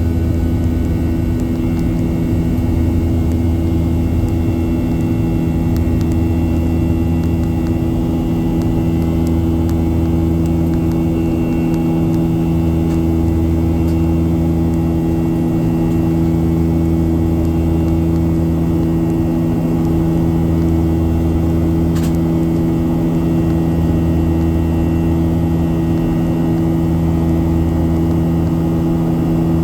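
Boeing 737-800's CFM56-7 turbofan engines running steadily under power, heard inside the passenger cabin as a constant drone with several steady hum tones and a low rumble that swells and fades slowly. A brief click sounds about two-thirds of the way through.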